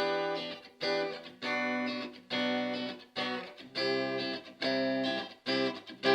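Donner Strat-style electric guitar played through the kit's 3-watt Donner practice amp on its clean setting. Chords are strummed one at a time, about one every three-quarters of a second, each ringing briefly before the next.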